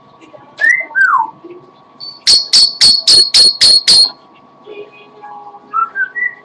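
Pet parrot whistling: two short sliding whistles, then a run of seven loud, sharp, high chirps at about four a second, then a few short rising whistles near the end.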